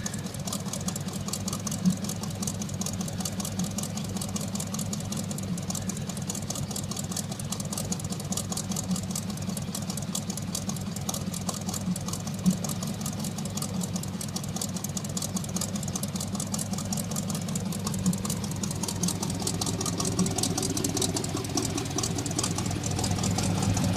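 Chevy Suburban's 305 small-block V8, bored .030 over, idling steadily through glass-pack mufflers with no catalytic converters. It gets a little louder near the end.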